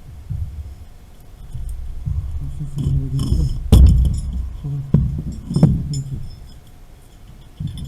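Metal clinks and knocks of tools and pipe fittings being handled during valve replacement work, with a sharp knock about four seconds in and two smaller ones shortly after.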